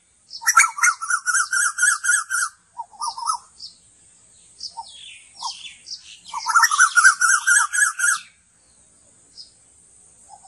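A bird calling: two runs of fast, warbling trilled calls of about two seconds each, with short falling chirps between them and a faint steady high hiss underneath.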